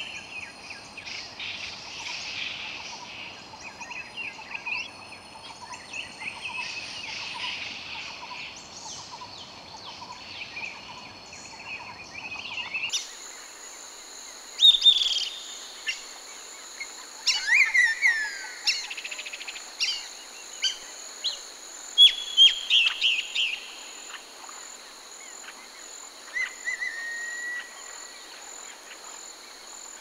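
Tropical rainforest ambience: many birds calling over a steady high insect drone. About halfway through the background changes abruptly to a clearer mix, where separate, louder bird calls stand out over the drone, among them a falling whistle.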